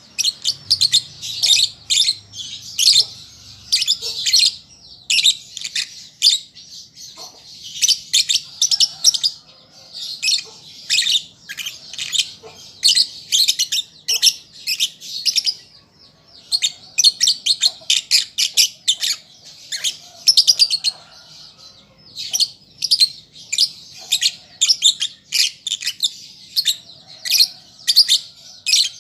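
Young lovebird learning to sing, chattering in rapid strings of high, shrill chirps. The strings run a few seconds at a time with brief pauses between them.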